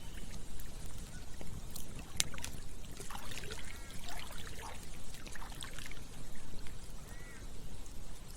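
Campfire crackling with scattered sharp pops over the steady rush of running water, with a burst of gurgling and bubbling in the middle.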